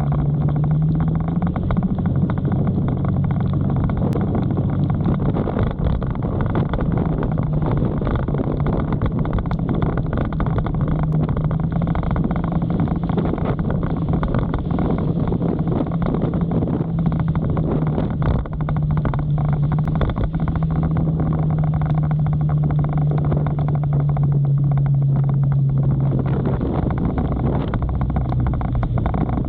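Motorcycle engine running at a steady low pitch while riding, with a constant rush of wind and rain noise over it.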